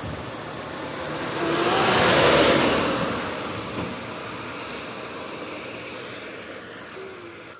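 Truck passing by on an uphill road: engine and road noise swell to a peak about two seconds in, then fade away.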